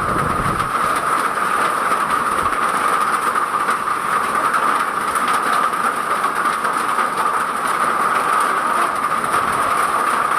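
Heavy hail and rain pelting down, a dense steady rattle of many small impacts.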